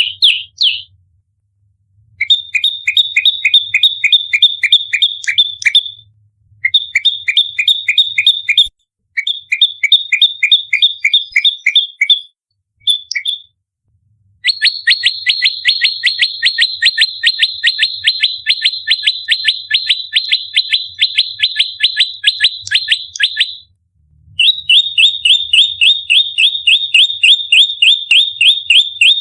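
Prenjak lumut songbird giving its rapid-fire fighting call: long bouts of sharp, evenly repeated chirps, several a second, broken by short pauses. The dense, fast delivery is the 'nembak rapat' style that bird keepers use as lure and training audio.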